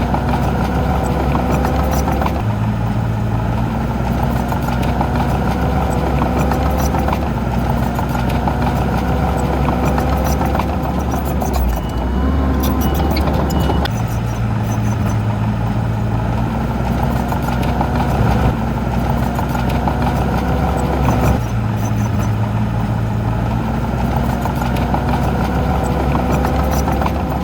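Heavy diesel engine of earthmoving machinery running steadily under changing load, its pitch stepping up and down several times, with scattered light clanks.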